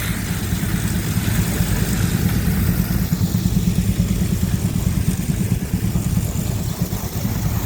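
Avery threshing machine running at work under belt power, a steady low rumble with a fast, even flutter.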